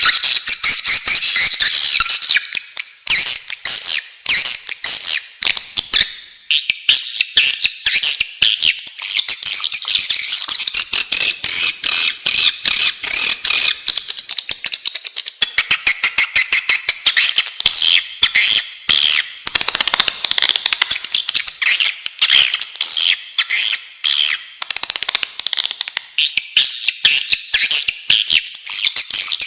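A flock of swiftlets twittering and clicking in a dense, rapid, unbroken chatter. This is a swiftlet call recording of the kind played to lure swiftlets into nesting houses.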